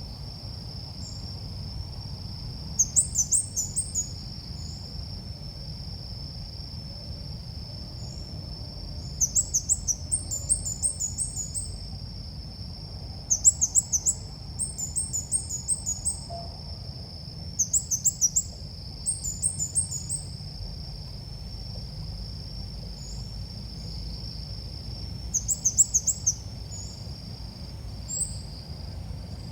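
Calls of the ốc mít bird, as played to lure birds: short bursts of rapid, high chattering notes repeated every few seconds. A steady high hum and a low rumble run underneath.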